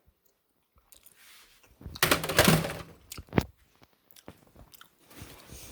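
Handling noise of plastic toy blasters being picked up and moved: a rustle about two seconds in, then a sharp click and a few small clicks.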